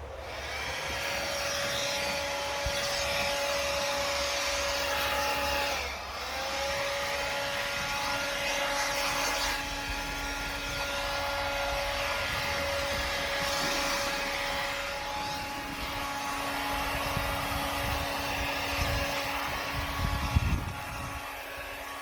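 Leaf blower running steadily at high speed, blowing snow, with a whining pitch over a rush of air. Around six seconds in its speed dips briefly and picks back up, and a few low thumps come near the end before the sound stops.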